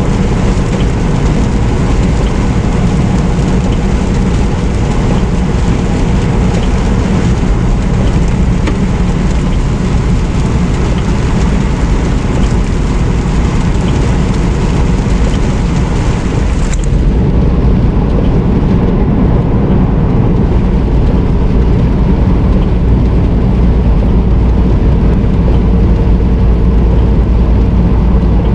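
Semi truck on the road, steady engine drone and road noise from the cab. About 17 seconds in, the high hiss drops away suddenly and the low rumble carries on.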